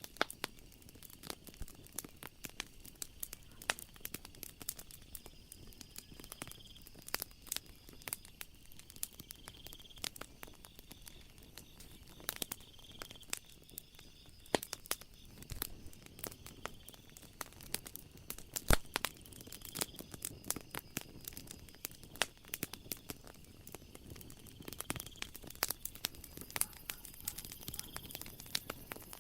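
Wood fire crackling, with irregular sharp snaps and a few louder pops. Under it runs a steady high chirring of night insects that swells every couple of seconds.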